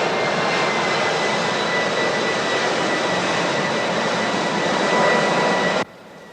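Jet airliner engines running: a loud, steady rush with a high, even whine, cutting off abruptly near the end.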